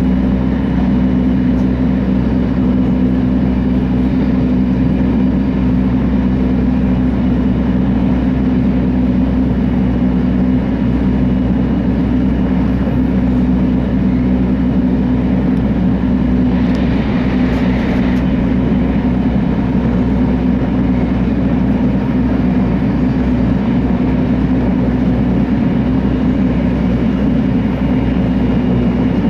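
Steady running noise of an E2 series Shinkansen heard inside the passenger cabin: a constant low hum with a rushing noise over it. There is a brief swell of hiss a little over halfway through.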